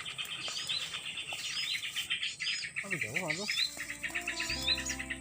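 Birds chirping: short swooping calls repeated about every half second over a dense, fast high trill. About three seconds in a lower wavering, sliding tone cuts in, and steady held tones start near the end.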